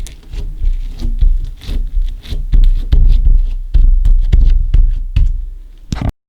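Slime mixed with small coloured particles being squished and kneaded by hand: dense sticky popping and crackling over heavy low thuds, in uneven pulses, cutting off abruptly near the end.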